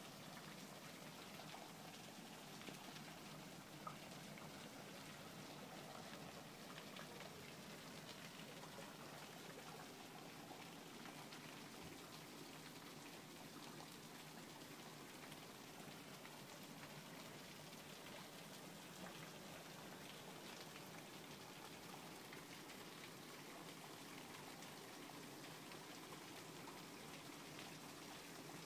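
Steady rain falling on a garden's paving and lawn, an even hiss of drops, with one small tap about four seconds in.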